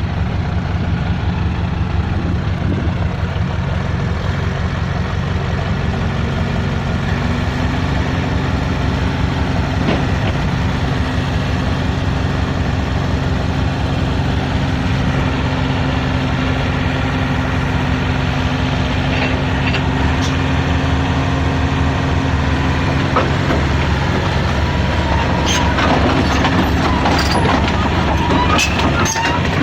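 Excavator's diesel engine running steadily under load, its pitch stepping up about 7 seconds in and holding for a long stretch. Sharp metallic clanks and knocks come near the end.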